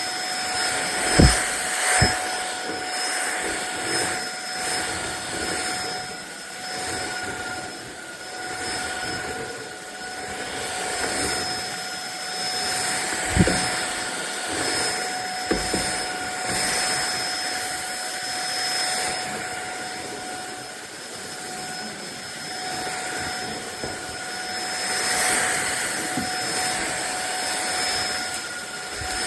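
Fieety cordless stick vacuum cleaner running with a steady high motor whine and a rushing airflow hiss that swells and fades as it is pushed back and forth. There are a few short knocks, two of them about a second apart near the start.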